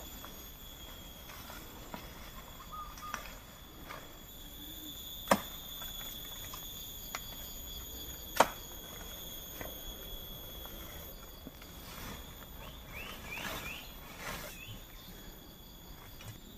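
Forest ambience with a steady high-pitched hum, scattered light clicks and rustles, and two sharp knocks about three seconds apart.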